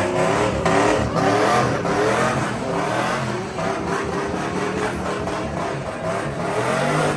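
A vehicle engine being revved, its pitch rising and falling several times.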